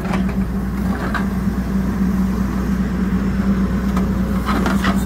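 Diesel engine of a Hidromek 102S backhoe loader running steadily at a constant speed, with a few short knocks about a second in and near the end.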